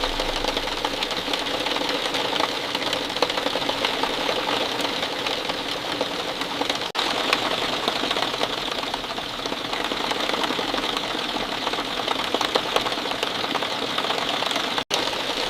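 Steady rainfall, a dense patter of drops with a continuous hiss, broken by a split-second gap about seven seconds in and again near the end.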